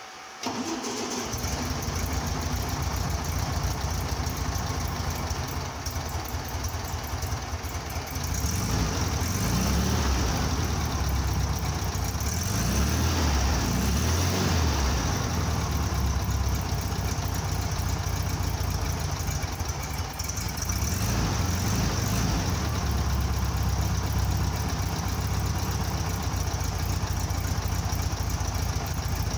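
Volkswagen 1300 air-cooled flat-four engine with a Solex 30 PIC carburettor starting about half a second in and then idling steadily. Its speed rises and falls a little as the carburettor is adjusted by hand, getting louder around eight seconds in.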